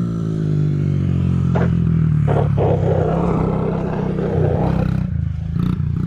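Motorcycle engine running at low speed as the bike circles close by, rising briefly in pitch near the start. A rough hissing noise joins it for a couple of seconds in the middle.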